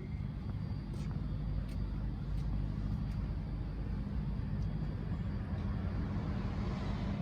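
Steady low drone of a road vehicle's engine running, with a few faint ticks in the first few seconds.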